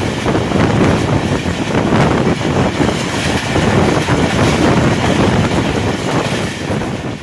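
Passenger train running at speed: a steady rumble and rattle of coach wheels on the rails, heard from an open coach window with wind buffeting the microphone.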